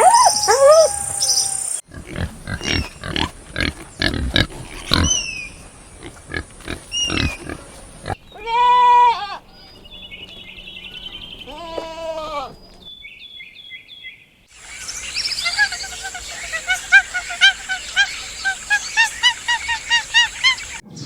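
A run of different animal calls, cut one after another: sharp clicks with high chirps, a loud pitched call about eight seconds in, then high trills, and from about two-thirds of the way through many rapid repeated chirps.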